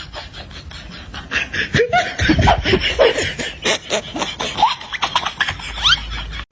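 People laughing in a run of short bursts and chuckles that cuts off abruptly at the end.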